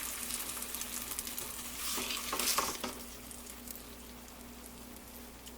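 Chicken breasts sizzling in melted butter in a non-stick pan, the sizzle dying away because the burner has just been turned off. A few louder scrapes of a utensil in the pan come about two seconds in.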